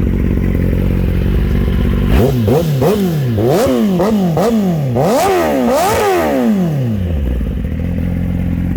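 Kawasaki Ninja ZX-10R's inline-four engine through an M4 slip-on exhaust, idling, then blipped sharply about seven times in quick succession, each rev rising and falling fast, before settling back to idle.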